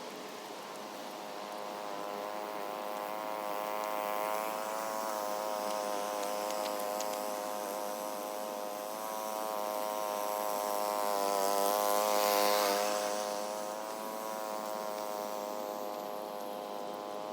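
Engine of a large special vehicle running steadily with a buzzing drone, its pitch wavering slightly as it drives. It grows louder toward about twelve seconds in, with a brief rush of hiss at the loudest point, then eases back.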